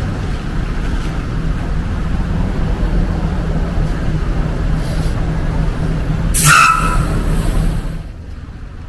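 A large motor vehicle's engine running close by with a steady low rumble. About six and a half seconds in there is a short, loud hissing squeal, and the engine sound falls away about a second and a half later.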